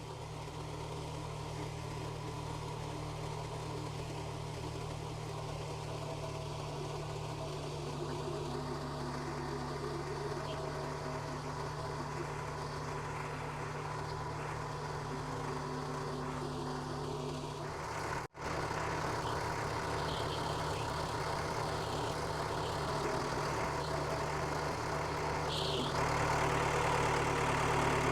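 Case 1840 skid steer's diesel engine running steadily at a low idle. The sound cuts out for a split second about two-thirds of the way through, and the engine gets a little louder near the end.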